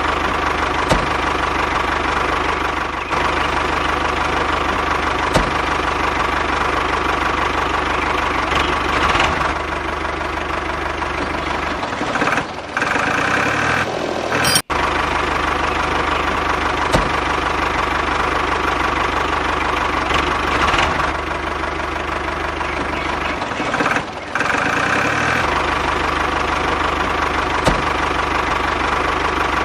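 Mini tractor's motor running steadily with a knocking, engine-like drone. It thins out briefly twice, about halfway through and again later, with one abrupt cut-off in between.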